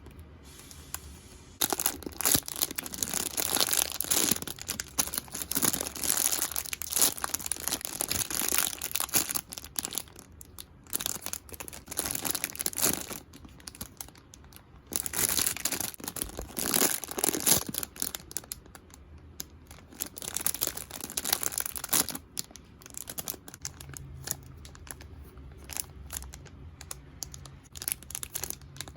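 Squishy-toy packaging being crinkled and torn open by hand, in a run of crackly bursts that thin out and grow fainter near the end.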